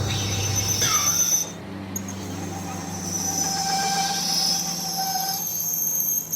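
Steel being machined: a high-pitched metallic squeal that wavers and comes and goes over the steady hum of a running machine, with a brief drop about a second and a half in.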